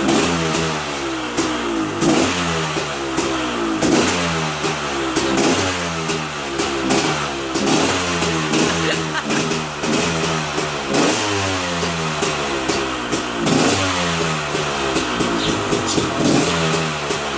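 Two-stroke engine of a KTM EXC dirt bike running after a top-end rebuild, revved up and down in repeated blips about every second and a half.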